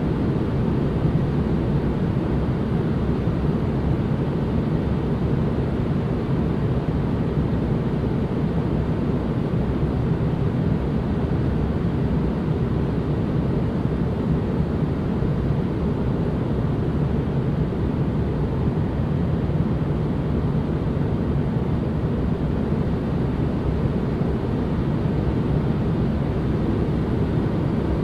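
Steady relaxation noise track: an even, unchanging hiss weighted toward the low end, deep rather than bright, with no tones or events.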